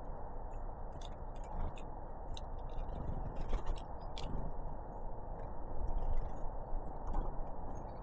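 Small birds, great tits and blue tits, pecking and scrabbling at seed on a feeder: irregular sharp clicks and taps, coming thickest in clusters about a second in and again near the end, over a steady low background rumble.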